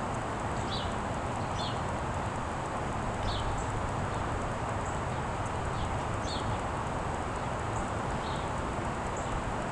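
Small bird chirping: short, high chirps that drop in pitch, repeated every second or so over a steady outdoor hiss.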